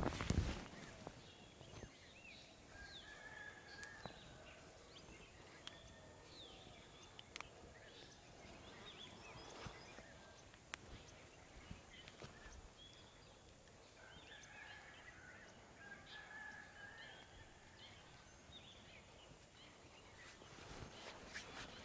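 Birds chirping and calling on and off, faintly, with a few sharp clicks and a louder thump right at the start.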